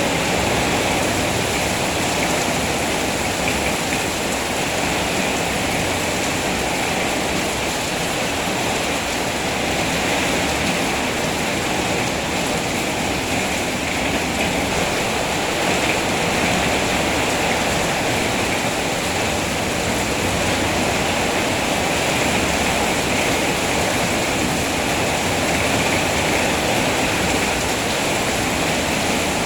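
Rain falling steadily and heavily, a dense, even hiss with no single drops or other events standing out.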